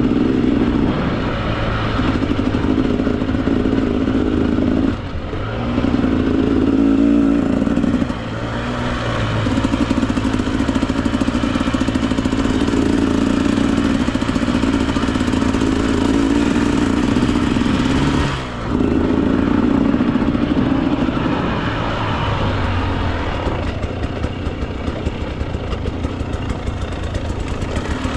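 Husqvarna TE 300 two-stroke dirt bike engine running under changing throttle. The engine note drops out briefly twice and settles lower and pulsing near the end.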